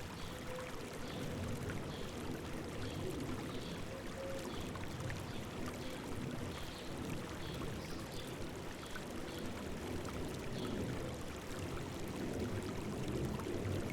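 River water flowing and babbling over rocks in a steady rush. A faint high chirp repeats every second or so above it.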